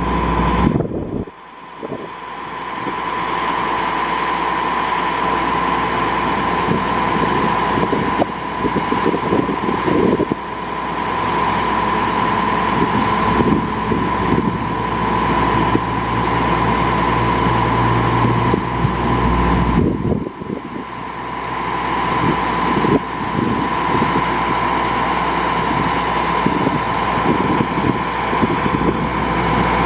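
Caterpillar diesel engine of a 2001 GMC dump truck running, with a constant high whine over the engine note. The sound drops out briefly about a second in and again around twenty seconds.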